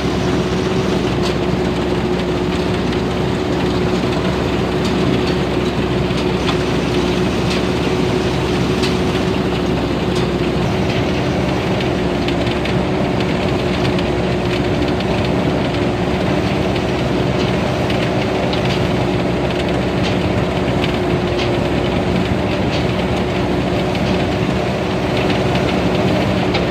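Tamco S9000 combine harvester with its Hino J08C diesel engine running steadily under harvesting load, a steady hum over a dense mechanical clatter with frequent small clicks.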